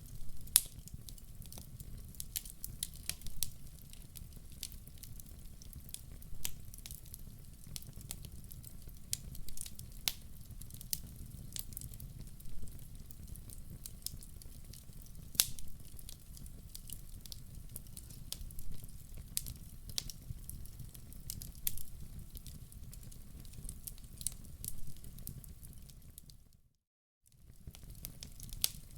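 Wood fire in a fireplace crackling, with irregular sharp pops over a steady low rumble of flames. The sound cuts out for under a second near the end, then resumes.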